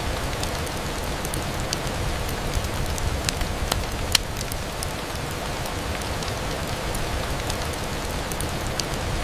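Steady rain on a window glass, an even hiss with scattered sharp ticks. One louder click comes about four seconds in.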